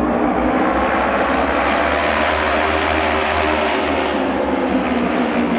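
Auto race motorcycles at full throttle on the oval, their engines making a loud, steady drone that swells in the middle as the pack goes by.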